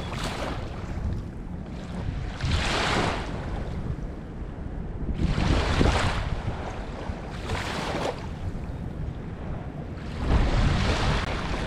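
Small waves washing in, five swells of rushing water noise about every two to three seconds, over a steady low rumble of wind on the microphone.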